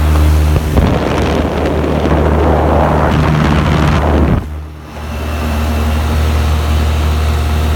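Trane packaged heat pump unit running with a steady low hum. For the first four seconds or so, loud rushing air buffets the microphone, then cuts off abruptly and leaves the hum on its own.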